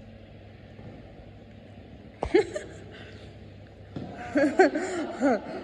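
A faint steady background hum, broken a little over two seconds in by one sharp knock. From about four seconds in, a person's voice makes short pitched sounds.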